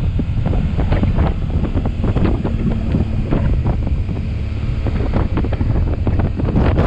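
Heavy wind buffeting on the microphone of a moving motorcycle, in constant irregular gusts, with the motorbike's engine running steadily underneath.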